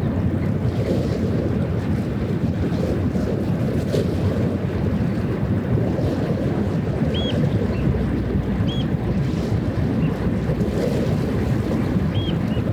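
Steady low rumble of wind on the microphone and water, with a few short, high, chirping bird calls in the second half.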